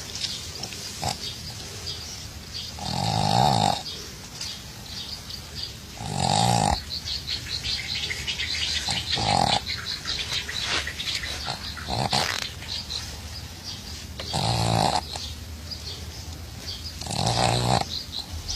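A dog snoring in its sleep: five loud, rasping snores a few seconds apart, with quieter noisy breathing between them.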